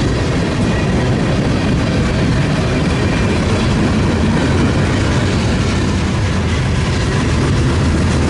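A train rolling past with a steady, loud rumble of wheels on the rails and a faint high ringing over it.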